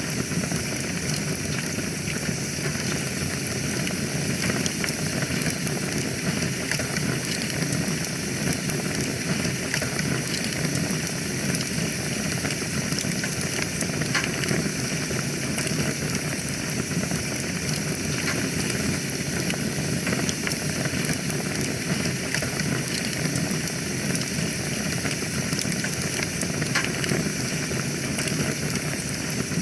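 Wood fire burning in a fireplace: a steady hiss of flames with many small crackles and pops.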